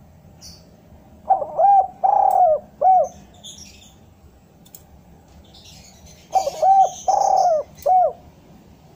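Spotted dove cooing: two phrases of about four notes each, one early and one about five seconds later, with faint high chirps in between.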